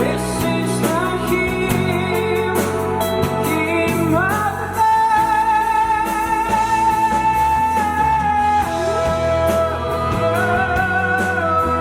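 Rock band playing live with guitar and a lead singer. The voice slides up about four seconds in and holds one long high note for about four seconds, then drops lower and climbs again near the end.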